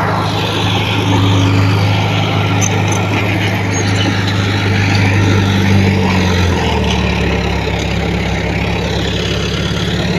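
Heavy diesel engine running steadily, its pitch settling lower about six and a half seconds in.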